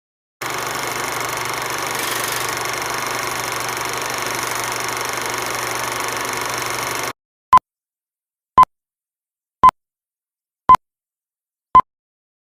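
Steady static hiss for about seven seconds that cuts off suddenly, followed by five short electronic beeps of one pitch, about one a second.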